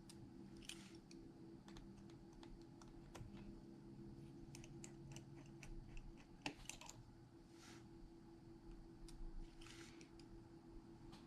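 Faint, scattered light clicks and taps of small hand tools and parts during an iPhone repair, with a sharper click about six and a half seconds in. A few short soft rustles sit over a steady low hum.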